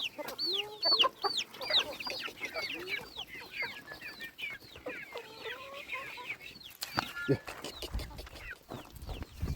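Chickens calling: many short, high peeps that fall in pitch, several a second, with some lower calls mixed in about halfway through. A few sharp clicks come about seven seconds in, and a low rumble starts near the end.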